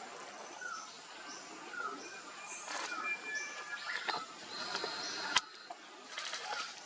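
Several birds chirping and whistling in short repeated notes at different pitches over a steady background hiss, with one sharp click about five seconds in.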